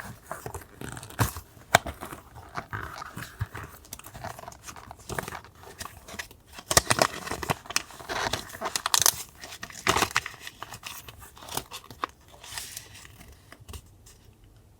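Paper being handled for journal collage: rustling, crinkling and tearing, with frequent sharp clicks and taps. It thins out and gets quieter near the end.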